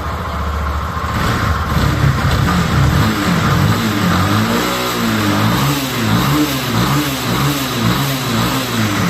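Yamaha Fazer 250's single-cylinder engine running, its pitch rising and falling repeatedly. It carries an abnormal noise from the bottom end of the engine, which the mechanic thinks is a worn crankshaft bearing.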